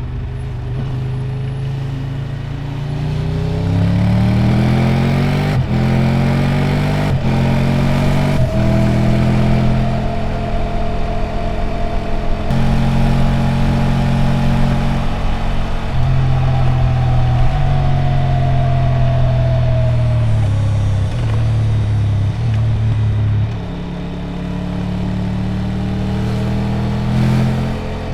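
Triumph Tiger 1200 Rally Explorer's three-cylinder engine under way. It rises in pitch over the first few seconds, with two short breaks for gear changes about six and seven seconds in, holds a steady pitch while cruising, then drops in pitch about twenty seconds in and settles at a lower steady note.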